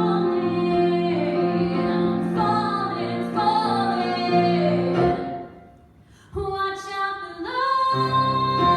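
A woman singing a music-theatre ballad with accompaniment. About six seconds in, the sound falls away briefly, then returns with a long held note.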